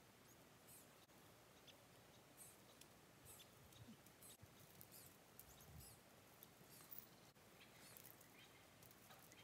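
Near silence in open forest, with faint, short, high chirps of small birds scattered throughout.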